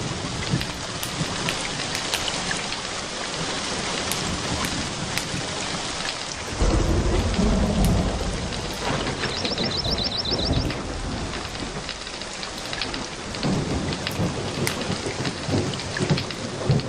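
Steady rain falling, with a low rumble of thunder that swells suddenly about six and a half seconds in and slowly fades.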